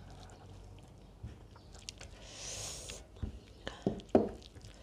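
Close-up eating sounds of a person chewing a mouthful of rice and curry, wet and smacking. A brief hiss comes about two seconds in, and a few sharp mouth smacks and clicks follow near the end.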